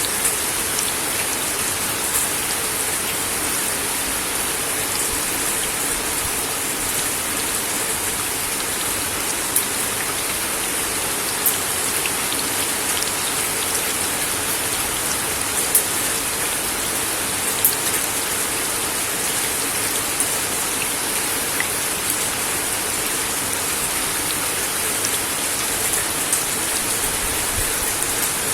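Steady rain falling on a wooden deck, an even hiss with scattered louder drops landing as sharp taps.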